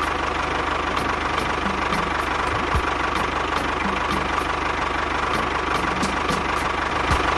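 Engine of a mini tractor-style machine idling steadily with a fast, even low pulsing, just after starting.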